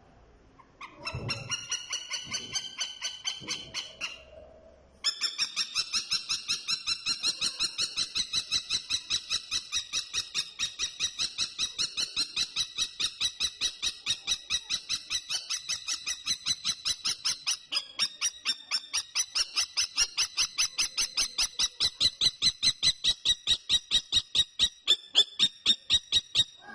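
Kestrel calling a rapid, high-pitched kee-kee-kee, about four or five calls a second. A short run of calls breaks off after a few seconds, then starts again and goes on unbroken for over twenty seconds.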